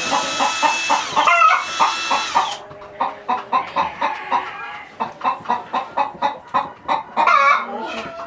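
Chickens clucking in a quick run of short clucks, several a second, with a drawn-out wavering squawk about a second in and again near the end.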